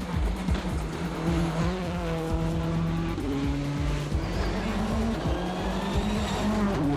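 World Rally car driven hard on a stage: engine pitch holding and then stepping to a new note several times, with tyre and gravel noise, over background music.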